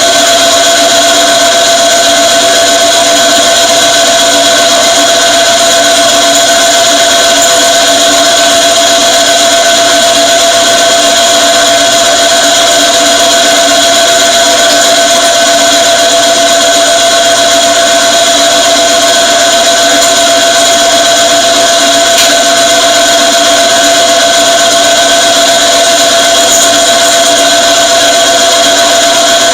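A machine spindle runs steadily, driving an annular cutter down through a workpiece on power feed. It is a constant, even machine hum with several fixed tones that does not change pitch or stop.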